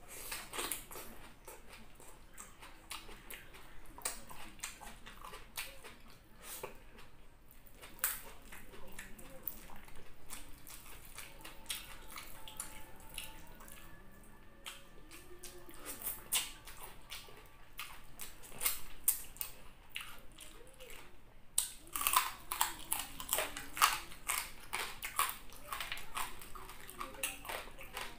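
Close-miked chewing and mouth sounds of eating fried tilapia and fried rice by hand, with many sharp crunchy clicks that come thickest about three-quarters of the way through.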